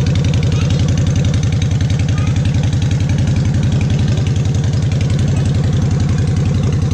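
A 2013 Honda Shadow Phantom's 745 cc V-twin idling steadily through a newly fitted aftermarket exhaust with its baffles in, its exhaust beats coming evenly and fast.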